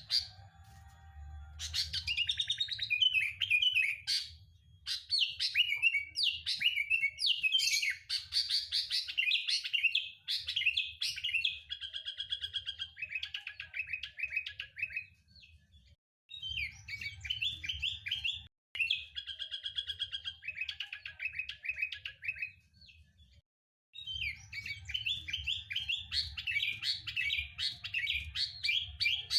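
Sooty-headed bulbul (kutilang) singing: rapid runs of bubbly chirps and trills in several long bursts, broken by two brief dropouts, with a low hum beneath.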